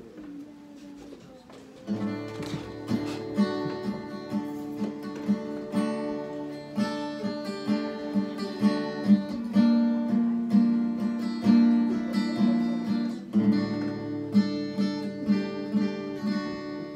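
Acoustic guitar playing a song's instrumental intro, picked and strummed chords with a steady rhythm, coming in about two seconds in.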